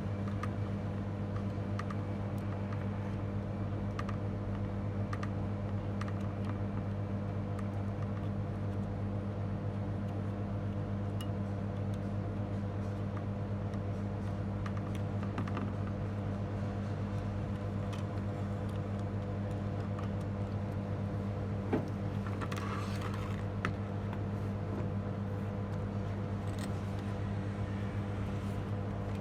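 A steady electrical hum, with scattered faint clicks and a short rustle a little past two-thirds of the way through.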